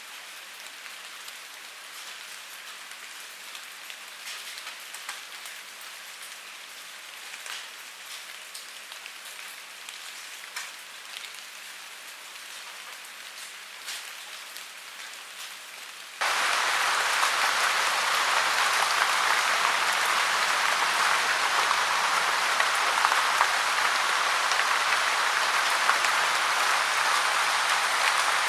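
Rain falling on a gutter, a steady patter with scattered individual drips. About halfway through it cuts suddenly to a much louder, steady rush of falling water.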